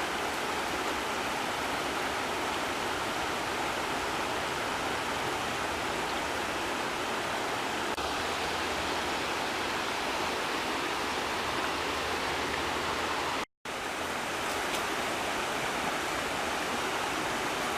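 Steady rushing of flowing water from a stream, cut off by a brief silent gap about three-quarters of the way through.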